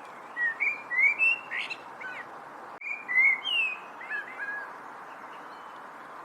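Songbird singing two short phrases of quick, gliding chirps, each about one and a half to two seconds long, over a steady background hiss.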